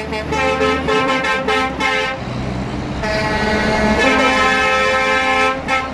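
Truck horn sounding a quick string of short toots for about two seconds, then one long blast of about two and a half seconds, over the low drone of a lorry engine climbing a mountain road.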